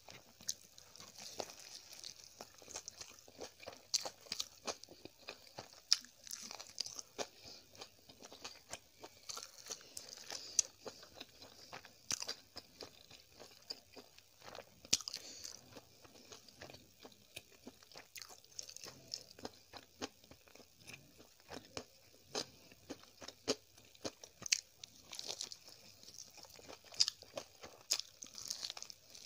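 Close-miked chewing and biting of an egg roll filled with Maggi noodles: many short mouth clicks and smacks, with a fresh bite taken near the end.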